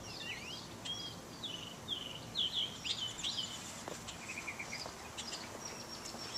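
Birds chirping: a string of short, high chirps and slurred notes over a faint steady hiss.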